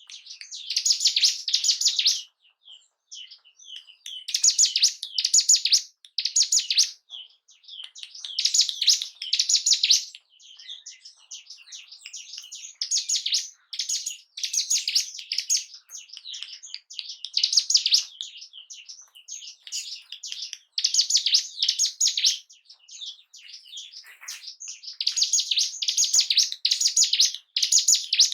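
Ciblek gunung (a mountain prinia) singing. It gives fast, high-pitched chattering phrases one to two seconds long, repeated every few seconds, with softer twittering in between.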